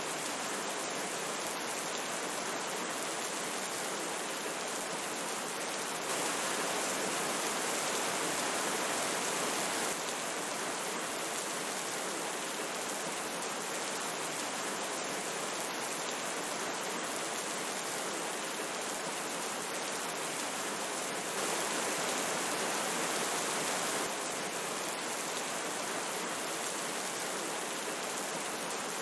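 Steady rush of river water mixed with falling rain. It grows a little louder twice, from about six to ten seconds and again from about twenty-one to twenty-four seconds, each time starting and stopping abruptly.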